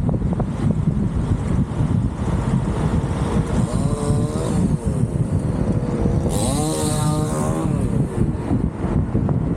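A motor engine revving up and falling back twice, about four and seven seconds in, over a steady low rumble of wind on the microphone.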